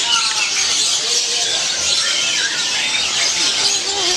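Many caged birds chirping at once, a dense steady chatter of high calls.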